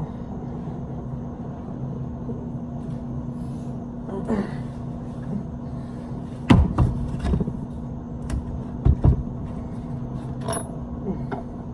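Tools and hardware being handled: scattered knocks and clunks, the loudest about six and a half and nine seconds in, over a steady low hum.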